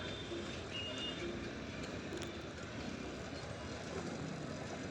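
Steady vehicle noise with voices in the background, and a brief high beep about a second in.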